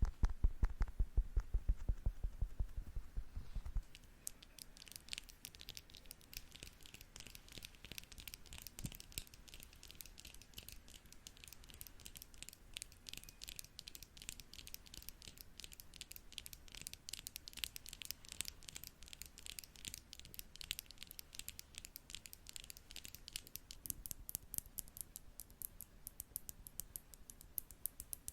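Makeup brush worked against the microphone. For about four seconds it taps quickly, each tap with a deep thump. Then it switches to rapid, light, scratchy brushing strokes of the bristles.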